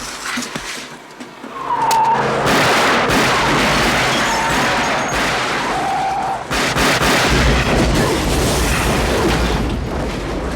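Action-film vehicle effects: a loud, dense engine-and-crash mix with brief tyre screeches about two and six seconds in.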